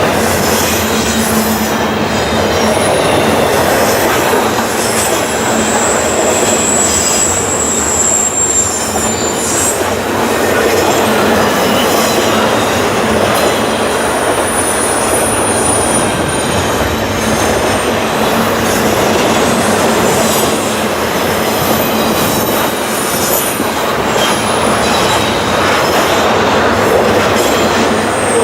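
Freight train's stack cars rolling past at speed: a steady, loud rumble and clatter of steel wheels on rail, with thin high-pitched wheel squeals coming and going.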